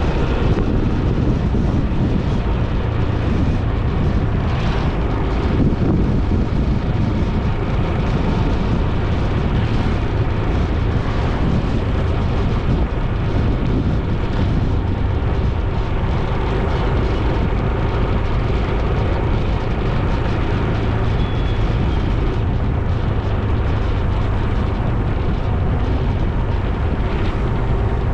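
Steady, loud rumble of road and wind noise from a vehicle on the move, with no change in speed or pitch.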